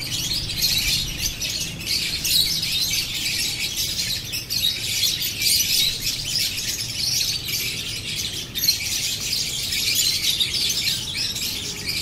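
Continuous high-pitched bird chirping.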